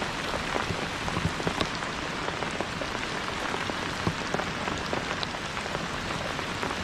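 Steady rain falling, a dense hiss dotted with the sharp ticks of individual drops striking surfaces.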